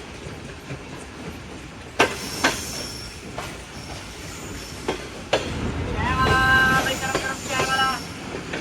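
Passenger train running on the rails: a steady rumble with sharp clicks of the wheels over rail joints. About six seconds in, the rumble grows louder and a high, steady squealing tone of several pitches sets in for around two seconds, rising briefly at its start, typical of wheels squealing against the rail.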